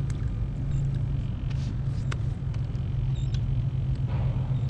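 Steady low rumble with a few light clicks scattered through it.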